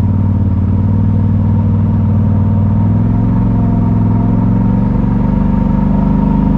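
Side-by-side UTV engine running under load on the trail, its pitch climbing steadily over the second half as it revs higher.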